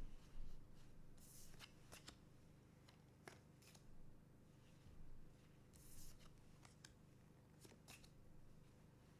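Trading cards being handled and flipped through: faint soft swishes of card sliding against card and scattered light clicks, a few seconds apart.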